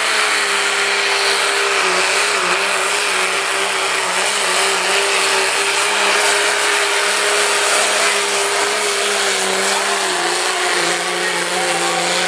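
Pulling truck's engine held at full throttle while dragging the sled: a steady high-revving drone with its pitch nearly level, over a loud rushing noise.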